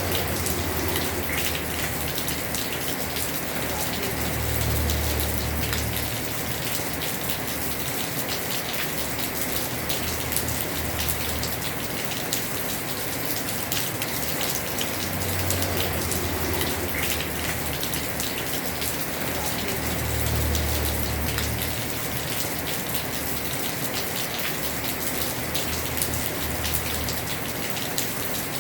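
Heavy rain falling steadily on a house roof: a dense patter of drops with low rumbles that swell and fade every few seconds.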